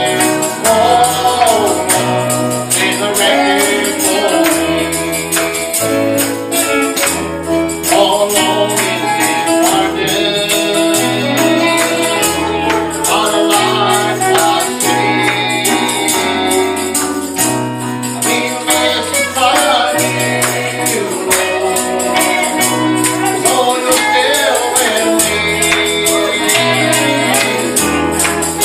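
Gospel church music: voices singing over a stepping bass line and a tambourine shaken in a fast, steady rhythm.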